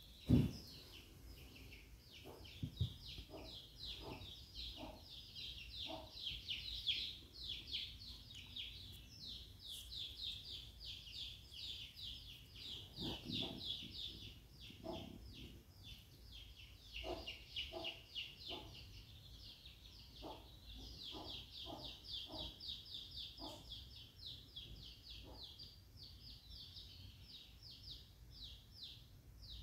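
Faint birds chirping: a rapid, unbroken run of short high-pitched chirps, with a thud just after the start and a few soft, scattered knocks.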